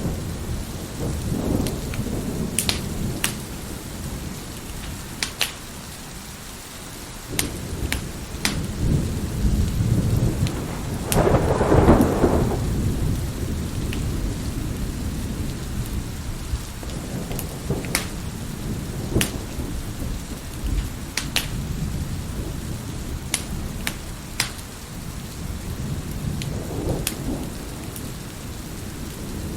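Wood fire crackling with scattered sharp pops over steady rain, while thunder rumbles low throughout, swelling into a louder peal about eleven seconds in.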